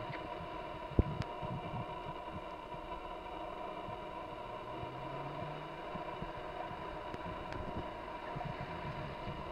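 The 2004 Acura TL's V6 running faint and low as the car rolls slowly closer, over a steady background hiss. A single sharp click comes about a second in.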